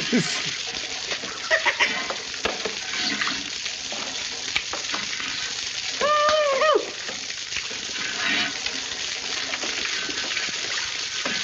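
Steady hiss of spraying water from leaking plumbing, with scattered knocks and clatters and a brief high, wavering tone about six seconds in.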